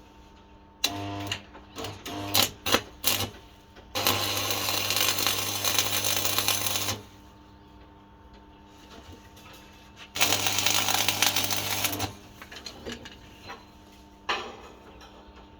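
Electric arc welding: a few short crackling tacks, then two longer welds of about three and two seconds, the arc crackle carrying a steady electrical hum from the welder.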